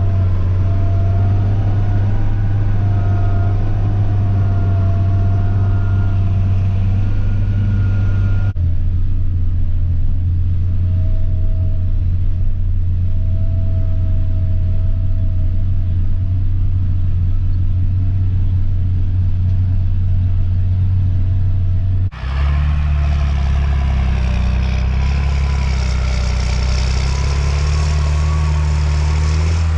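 John Deere 8400 tractor's six-cylinder diesel engine running steadily with a deep drone. The tone changes abruptly twice, about eight seconds in and about twenty-two seconds in, as the recording cuts between shots.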